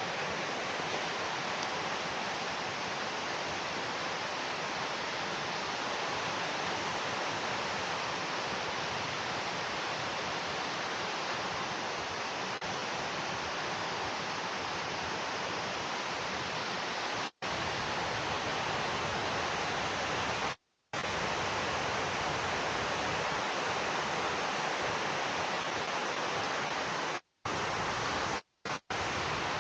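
Steady rush of cascading water from a waterfall and stream, as an even hiss. It cuts out to silence a few times for a moment in the second half.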